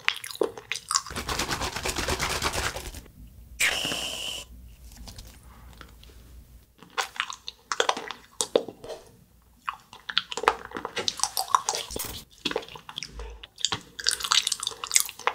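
Close-miked chewing and biting of an edible glue stick made of agar jelly and condensed milk: many sharp wet mouth clicks from about seven seconds in. Earlier there is a hiss lasting about two seconds, then a short high tone.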